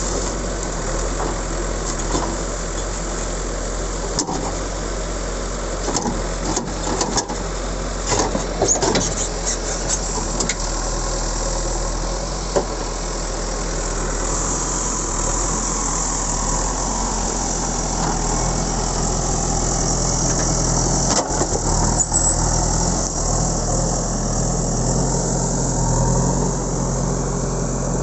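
JCB backhoe loader's diesel engine running steadily, with a few knocks and rattles about a third of the way in; the engine grows a little louder past the middle.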